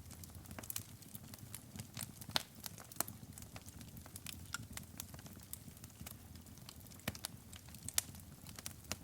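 Wood fire burning in a fireplace, crackling with irregular sharp pops over a low steady rumble of the flames, with a couple of louder pops, one near the end.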